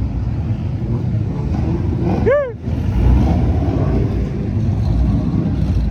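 Car engines rumbling in a steady low din. About two seconds in there is one short pitched whoop that rises and then falls.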